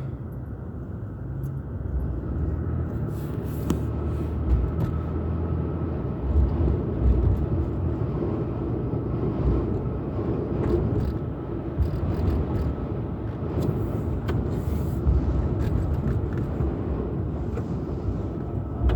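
Car driving, a steady rumble of road and engine noise.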